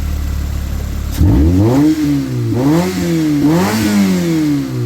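Toyota car engine idling, then revved about a second in, its pitch rising and falling three times in quick blips before it starts dropping back toward idle near the end.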